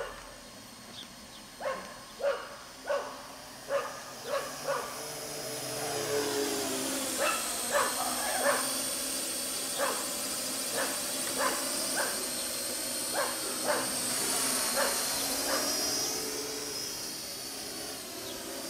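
A dog barking repeatedly in short, sharp barks. About six seconds in, the high-pitched whine of a Parrot AR.Drone 2.0 quadcopter's rotors starts and runs on under the barking.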